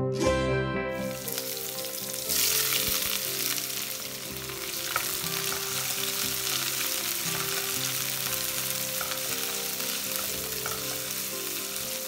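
Sliced onions and green chillies sizzling in hot oil in a stainless steel kadai, stirred with a wooden spatula. The sizzle starts about a second in and grows louder about two seconds in.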